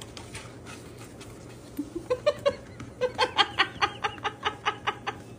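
A quick, even run of short, high vocal sounds, about five a second, starting about two seconds in.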